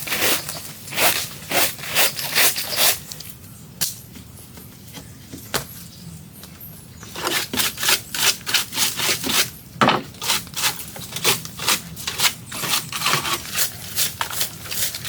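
Repeated rasping strokes of a hand tool on wood, about two to three a second, pausing for a few seconds near the middle before starting again.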